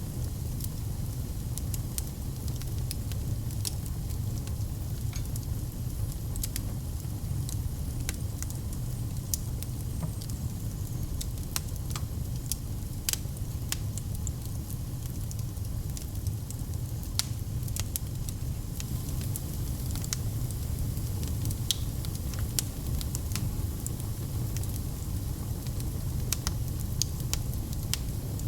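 Log fire crackling in a fireplace: irregular sharp pops and snaps of burning wood over a steady low rumble of the flames.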